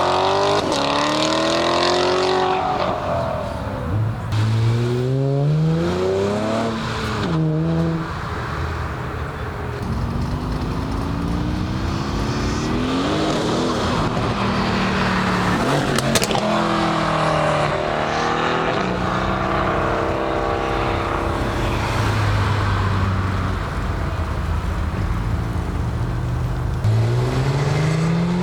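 Cars accelerating hard one after another, engines revving up in pitch and shifting through the gears, with the pitch dropping as each one passes by.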